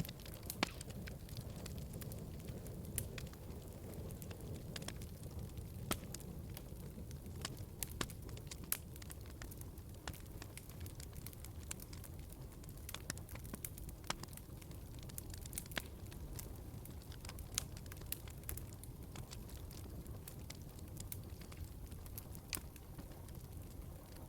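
Wood fire in a fireplace crackling, with irregular sharp snaps and pops over a low, steady rumble of the flames.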